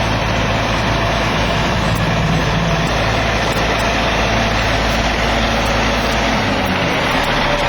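Kenworth W900L dump truck's CAT C-13 diesel engine running steadily at idle; the low engine tone shifts about six and a half seconds in.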